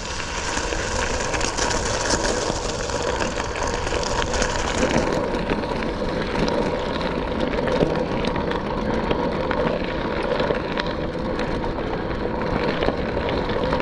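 Steady riding noise from a Specialized Sirrus X hybrid bicycle: tyres rolling over a wet, rough trail, with small clicks and rattles from the bike.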